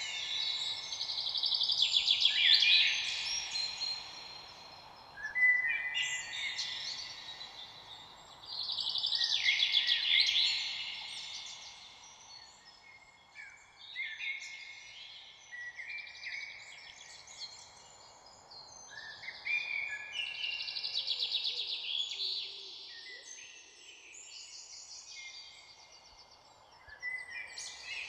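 Songbirds singing: bursts of rapid, high chirps and trills every few seconds, each lasting one to three seconds, over a steady low background hiss.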